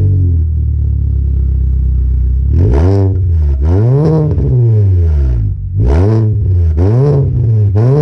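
2011 Hyundai Sonata's four-cylinder engine idling through an aftermarket catback exhaust, then blipped several times. Each blip rises in pitch and falls back toward idle.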